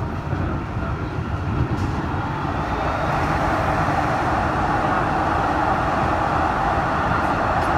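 MTR M-Train electric multiple unit running along the track, heard from inside its rear cab: a steady rumble of wheels on rail. The noise grows louder and more ringing from about three seconds in as the train runs into a tunnel.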